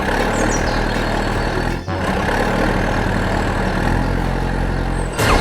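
A vehicle engine running steadily with a low hum. The sound drops out briefly about two seconds in and again near the end.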